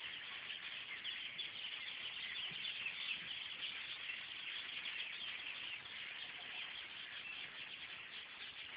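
A flock of small birds at their nests in a tree, chirping and chattering all at once in a dense, steady chorus.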